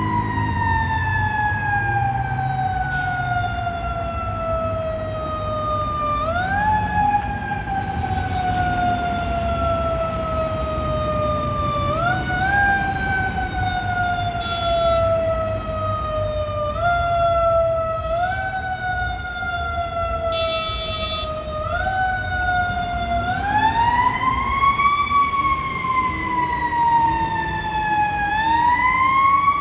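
Emergency vehicle siren on a lights-and-sirens response: the pitch falls slowly over several seconds and is repeatedly pushed back up in short rises, then turns into two fuller rise-and-fall wails near the end. A heavy vehicle's engine rumbles underneath.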